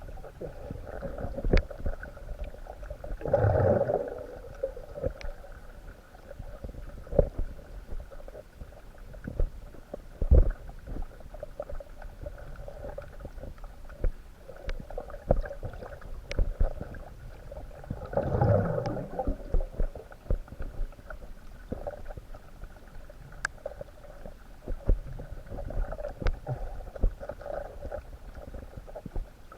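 Underwater sound picked up by a submerged camera: a muffled low rumble of moving water with scattered clicks and knocks, and two louder gurgling rushes about fifteen seconds apart.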